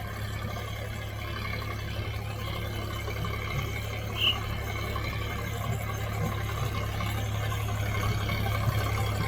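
Tractor diesel engine running with a steady low hum that slowly grows louder, with one brief high chirp about four seconds in.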